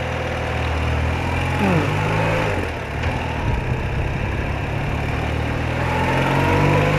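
BMW R80RT's air-cooled flat-twin engine running as the motorcycle rides along, its pitch stepping up and down a few times with changes in revs, over steady road and wind noise.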